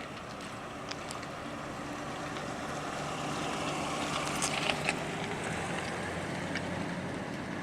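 Steady rain with scattered drips ticking, while a low hum swells through the middle and fades toward the end.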